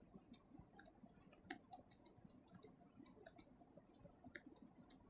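Near silence: room tone with faint, scattered light clicks at irregular moments.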